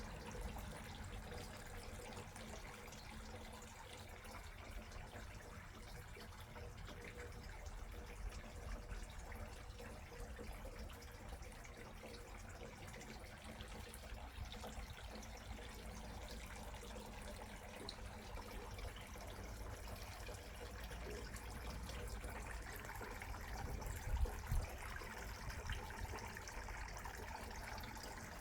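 Faint trickling water with a steady low rumble underneath.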